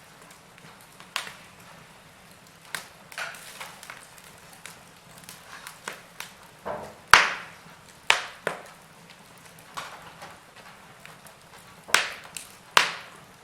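Log fire crackling: irregular sharp pops and snaps of burning wood over a faint low hiss, the loudest pop about seven seconds in and two more near the end.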